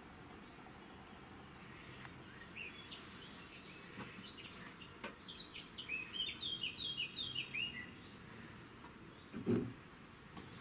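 A songbird singing: a few high chirps, then a run of quick short notes stepping down in pitch, over faint background noise. A brief low sound comes near the end.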